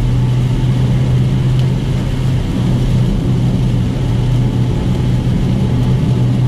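Dodge Challenger Scat Pack's 6.4-litre HEMI V8 droning steadily at a constant cruising speed, heard inside the cabin, over a steady hiss of tyres on a wet road and rain on the car.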